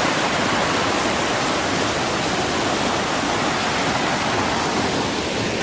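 Waterfall and fast-flowing stream water rushing, a steady, even roar of falling and running water.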